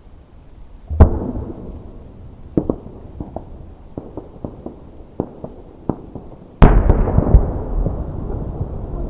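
Aerial fireworks shells bursting: a heavy boom about a second in that rumbles away, a scatter of a dozen or so sharp pops over the next few seconds, then a louder boom near the end that rolls on in a long rumble.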